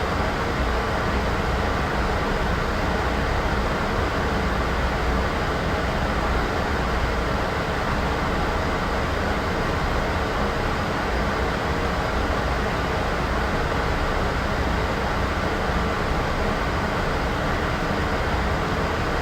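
Steady white-noise sound effect: an even, unchanging hiss with extra weight in a low rumble.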